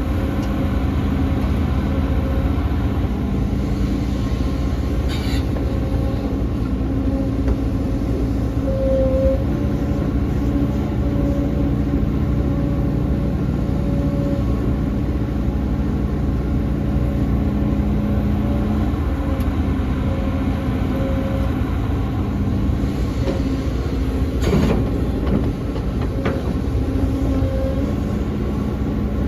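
Heavy diesel engine of a tracked excavator running steadily under digging work, its note shifting slightly, with a brief metallic knock about five seconds in and another near the end.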